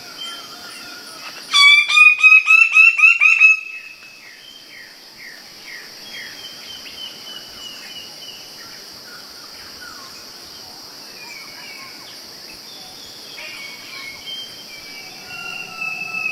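Birds calling: a loud, rapid run of ringing notes for about two seconds, then a string of short falling notes and scattered softer calls, over a steady high hiss.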